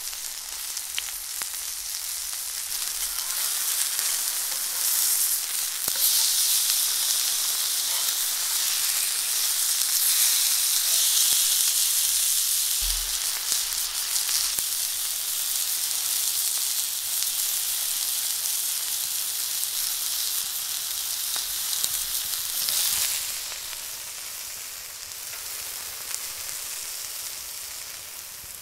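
Chicken breasts sizzling as they sear in a cast-iron pan, a steady frying hiss with faint spitting ticks. The sizzle grows louder a few seconds in and drops back about three-quarters of the way through.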